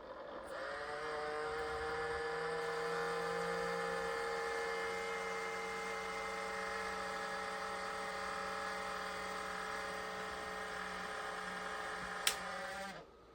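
Small electric motor whirring with a steady whine. It spins up about half a second in, runs steadily, and stops just after a sharp click near the end.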